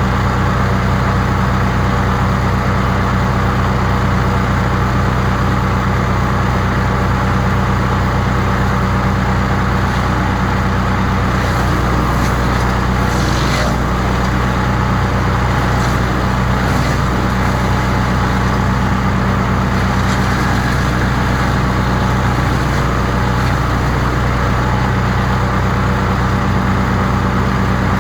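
Crytec 15 HP wood chipper's engine running at a steady speed.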